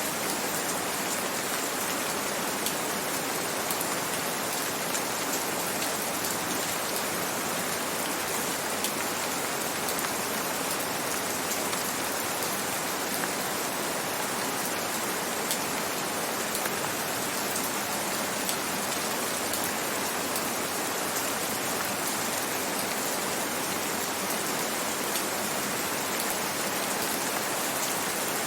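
Steady gentle rain falling, an even hiss with fine scattered drop ticks.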